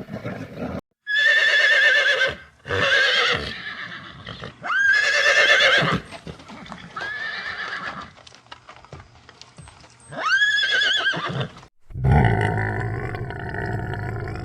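A horse whinnying about five times, each call a quavering, pitched neigh lasting roughly a second. Near the end a different, lower animal sound begins.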